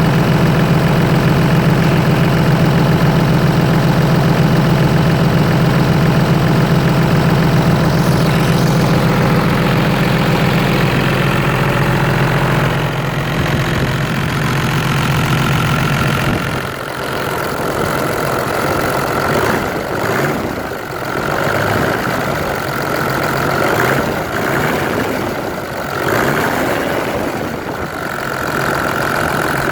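Toyota 1HD-FT 4.2-litre straight-six turbo diesel idling steadily with a deep hum. From about halfway through it is revved several times, each rev bringing a higher whine that rises and falls.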